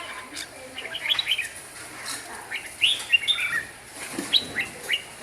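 Red-whiskered bulbul singing: short, quick phrases of rising and falling whistled notes, repeated several times with brief pauses between them.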